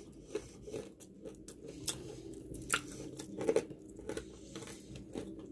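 Close-up chewing of fried food, likely the potatoes, with irregular small crunches and wet mouth clicks.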